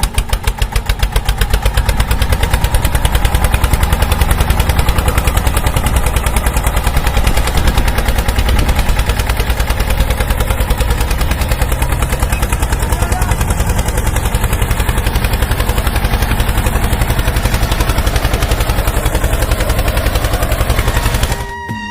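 Small motor of a homemade toy tractor running with a fast, even clatter; it cuts off suddenly near the end.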